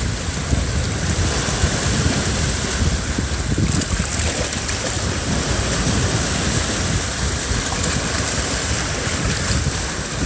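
Sea surf at the shore with wind buffeting the microphone, a steady rushing noise with no pauses.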